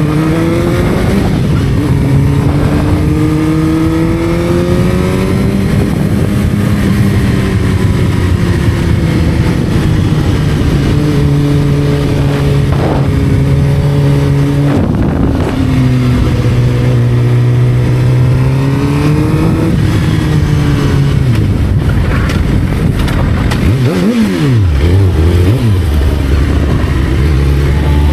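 Motorcycle engine under way, its pitch climbing through the gears and dropping at each shift, over steady wind rush. Near the end the engine pitch dips and swings up and down twice in quick succession.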